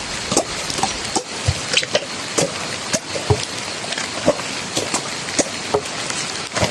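Steady rain hissing, with many irregular close taps of drops and two dull thuds, about one and a half seconds and just over three seconds in.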